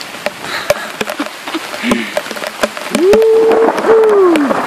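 Heavy rain pattering and splashing on wet forest ground, with many sharp drop clicks. About three seconds in, two drawn-out pitched sounds rise above the rain, the second falling away at the end.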